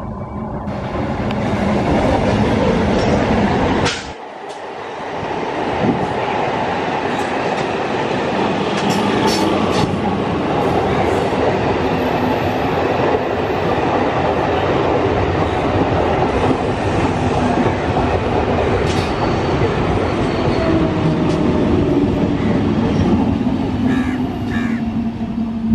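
MEMU electric passenger train running past close by: a steady rumble and rattle of wheels and coaches on the track. There is a sudden break about four seconds in, after which the passing noise resumes and holds steady to the end.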